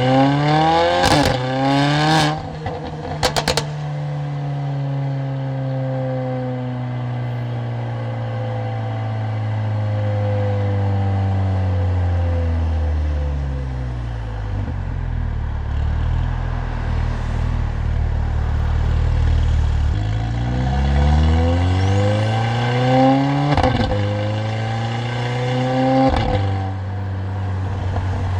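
Mercedes-AMG CLA45's turbocharged four-cylinder engine and loud exhaust under hard acceleration, rising in pitch through two quick upshifts with sharp exhaust cracks at the changes, then easing off with the pitch slowly falling. About twenty seconds in it pulls again, rising through two more upshifts before settling to a steady cruise.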